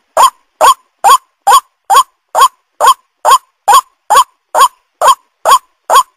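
White-breasted waterhen call: a short, curved 'kwak' note near 1 kHz, repeated evenly about twice a second, fourteen times.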